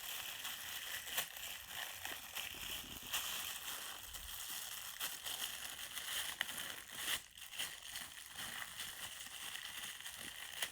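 Plastic packaging crinkling and rustling in small irregular bursts as a toy is worked out of it by hand.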